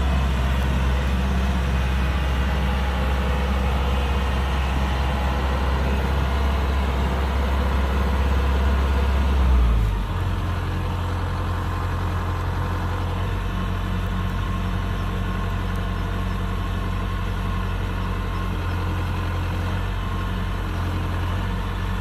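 Kubota DC-105X combine harvester's diesel engine running steadily. About halfway through, its low note shifts and it becomes slightly quieter, then runs on evenly.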